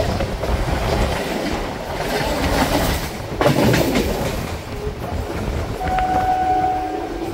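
MMTS electric multiple-unit local train running, heard from its open doorway: a steady rumble and rattle of wheels on the rails, with a sudden louder burst of clatter about three and a half seconds in. Near the end a steady pitched tone sounds for about a second.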